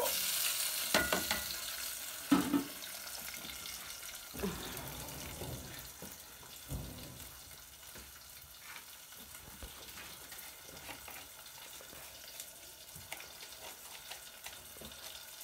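Chopped tomatoes and onions hitting a hot aluminium pot and frying, a sudden loud sizzle that slowly dies down to a steady low hiss. A few knocks in the first seven seconds.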